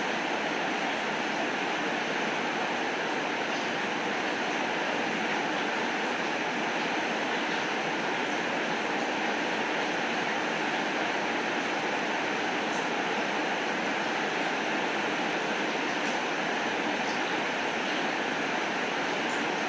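Steady rain falling, an even hiss that does not change, with a few faint ticks here and there.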